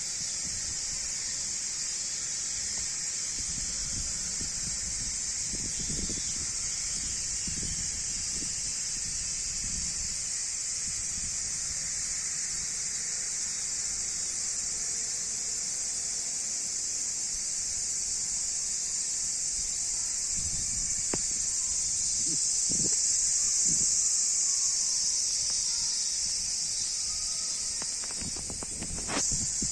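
Insects droning steadily at a high pitch, with irregular low rumbles underneath.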